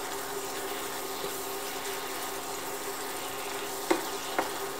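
Minced pork and tomato chili paste sizzling gently in a small pan while a wooden spatula stirs and scrapes through it. Two short knocks of the spatula against the pan come near the end.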